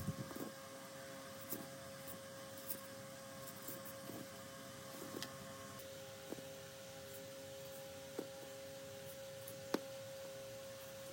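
A faint steady hum with scattered light clicks and taps.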